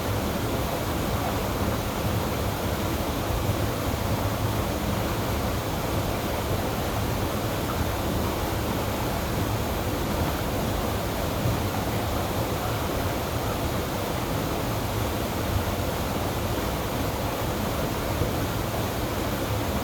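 River water rushing steadily, a loud, even wash of noise.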